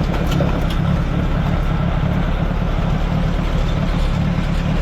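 1948 Allis-Chalmers C tractor's four-cylinder engine running steadily, with a few faint ticks in the first second.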